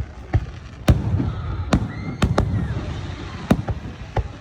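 Aerial fireworks shells bursting: a rapid run of about eight sharp bangs over a continuous low rumble of further explosions.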